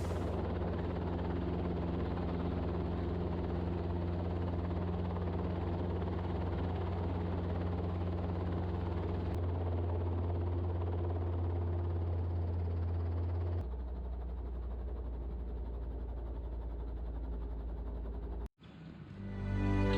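Robinson R22 helicopter running, heard as a steady low drone; its tone and level shift twice, about halfway through and again a few seconds later, and it cuts off suddenly shortly before the end.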